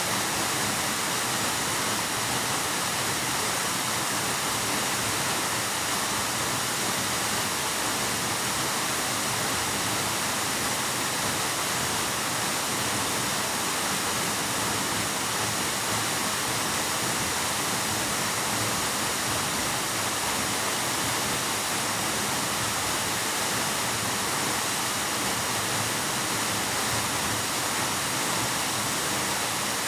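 Waterfall pouring steadily into a pool: an even, unbroken rush of falling water, with most of its energy in the upper range, echoing in a cave.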